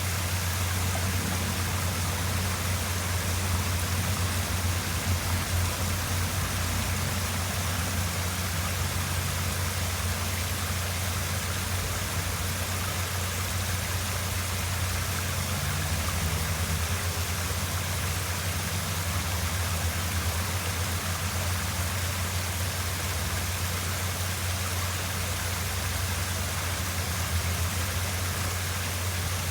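Waterfall: falling water rushing steadily, a deep rumble under a broad hiss.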